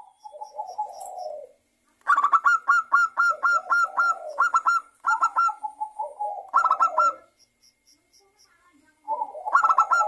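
Zebra dove (perkutut) singing: a soft rolling coo, then long runs of rapid, clipped cooing notes, about four or five a second, in several bouts with short pauses between.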